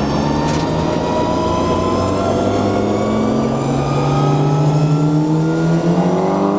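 Nissan Skyline GTR engine pulling hard under full acceleration, its pitch rising steadily through one long gear, heard from inside the car.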